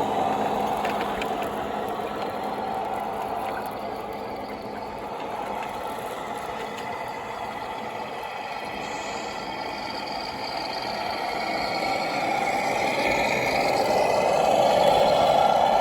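Radio-controlled model truck running with a steady whirring drone that grows louder and rises in pitch over the last few seconds.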